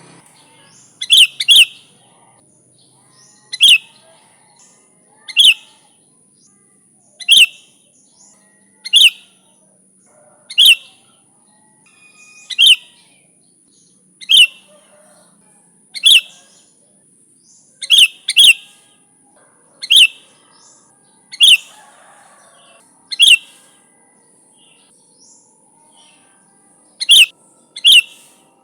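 Sooty-headed bulbul giving short, sharp calls over and over, about one every one and a half to two seconds, some in quick pairs, with a pause of a few seconds near the end.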